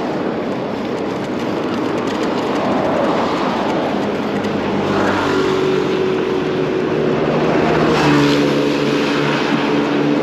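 Street traffic with a steady rush of noise; about halfway through, the low, even hum of a nearby motor vehicle's engine joins in and changes pitch slightly near the end.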